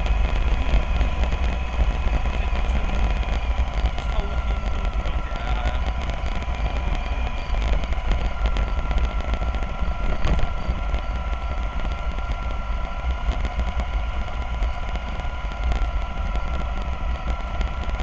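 Radio-controlled model double-decker bus running, its small electric motor giving a steady whine over a heavy low rumble.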